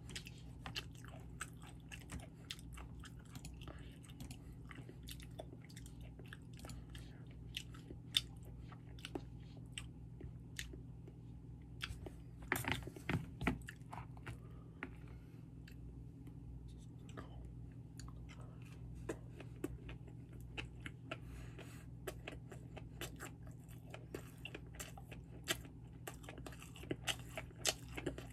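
Close-miked chewing of sushi: soft wet mouth clicks and smacks, with a denser run of louder clicks about halfway through. A steady low hum sits underneath.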